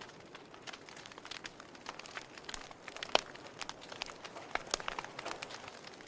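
Wood fire in a fireplace crackling: irregular sharp pops and snaps of varied strength over a faint hiss, with one louder pop about three seconds in.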